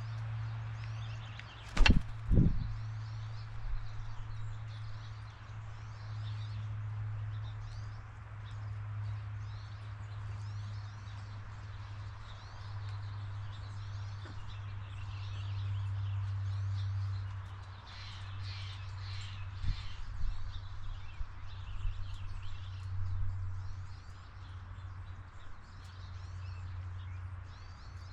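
Small birds chirping, with many short high calls scattered throughout over a steady low hum. Two sharp knocks come about two seconds in, and a few fainter ones later.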